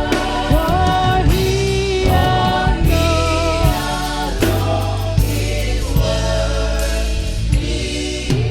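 Gospel choir singing a worship song with a live band, the voices over bass and regular drum hits.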